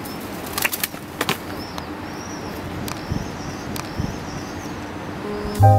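A pigeon's wings flapping in a few short bursts, then a run of high, quick chirps from small birds. Piano music comes in near the end.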